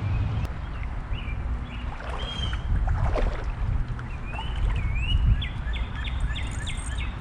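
Low, steady rumbling noise with a songbird calling over it: a few separate whistled notes, then a quick run of about eight repeated chirps near the end.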